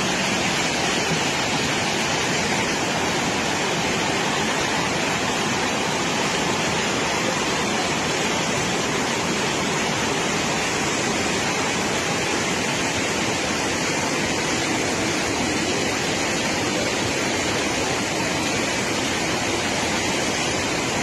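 Steady, loud rush of fast-flowing water, like a river in flash flood, with no let-up or change.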